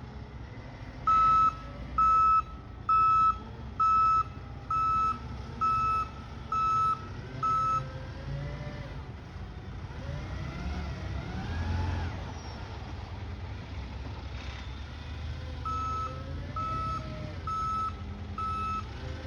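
Garbage truck's reversing alarm beeping about once a second, a single steady tone: eight beeps, a pause, then four more near the end. The truck's engine runs underneath, with a wavering whine in the pause between the beeps.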